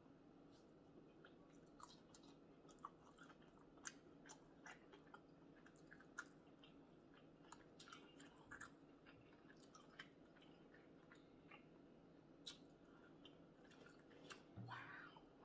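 Faint close-up chewing of sausage, rice and cucumbers: scattered soft clicks and smacks of the mouth, with a brief hum of the voice near the end.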